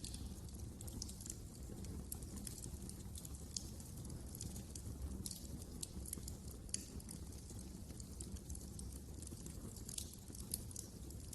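Wood fire crackling in a fireplace: irregular sharp pops and snaps, several a second, over a low steady rumble of the burning logs.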